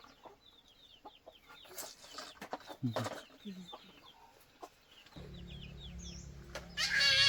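Chickens clucking with many short high cheeps from chicks. A low steady hum comes in about five seconds in, and a loud wavering animal call sounds right at the end.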